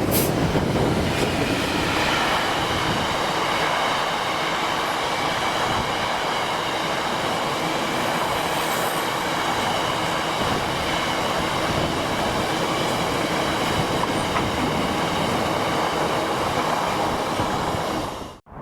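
A train passing on the line: a steady rumble of wheels on rail, with high steady wheel squeal from about two seconds in. The sound cuts off suddenly near the end.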